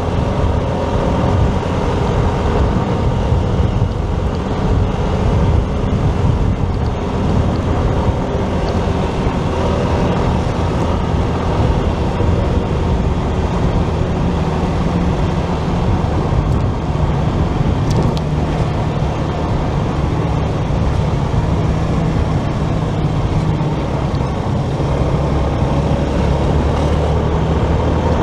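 Motorcycle riding through city traffic: steady wind rush and rumble on the microphone, with the engine and the surrounding traffic beneath it, and a brief sharp click about eighteen seconds in.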